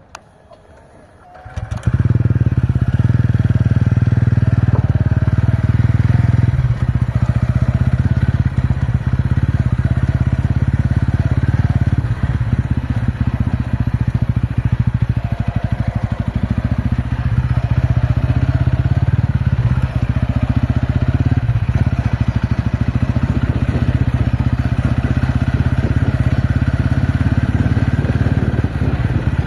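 A TVS Ronin motorcycle's single-cylinder engine running steadily. It comes in abruptly and loud about two seconds in after a quiet start, and its note shifts a couple of times.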